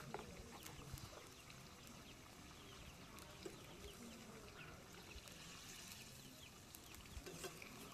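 Near silence: quiet background with faint, scattered high chirps, like small birds.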